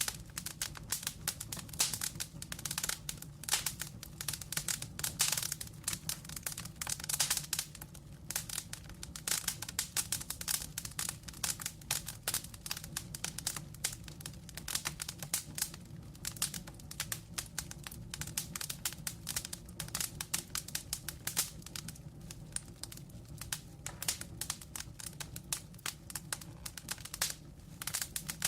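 Wood fire crackling: a dense, irregular run of snaps and pops from burning logs over a low steady hum.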